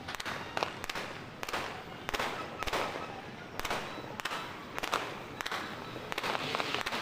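Fireworks and firecrackers going off repeatedly at irregular intervals, many bangs with short echoing tails, some near and some far.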